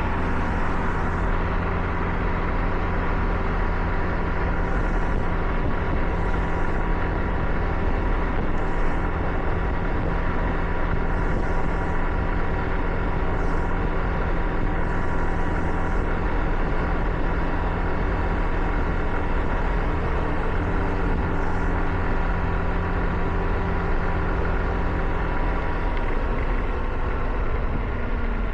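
Car driving on a wet road: a steady engine drone under tyre and road noise, with brief hissing several times. The engine note falls near the end, as if slowing.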